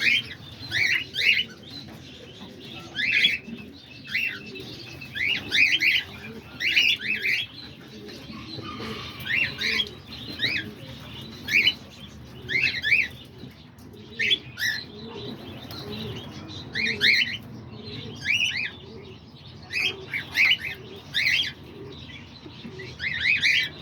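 A flock of cockatiels in an aviary chirping, giving loud, sharp calls in quick clusters about once a second, over a steady background of bird chatter.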